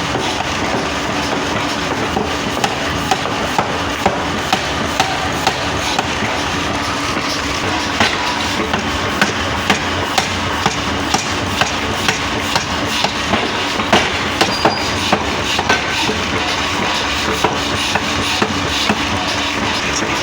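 Sharp metal knocks, irregular at about one or two a second, over a steady running machine noise with a low hum.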